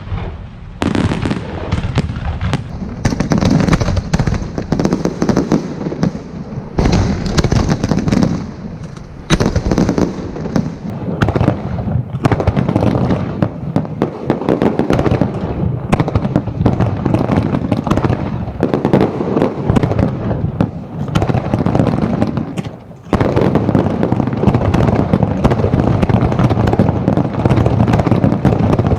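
Aerial fireworks display: shells bursting in a dense, continuous run of overlapping bangs and crackling. Near the end it builds into a steadier, heavier barrage.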